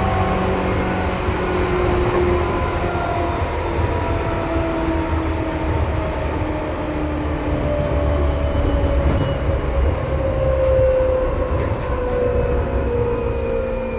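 Seibu 2000 series electric commuter train running, a steady rumble of wheels on rail under several motor and gear whines that slowly fall in pitch as the train slows.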